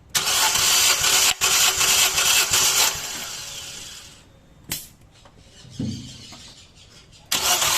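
Nissan Versa engine turned over by its starter motor without firing, an even pulsed cranking for about three seconds that then fades away, a click midway, and cranking again near the end. It is being cranked for a compression test on cylinder 4, the cylinder suspected of misfiring.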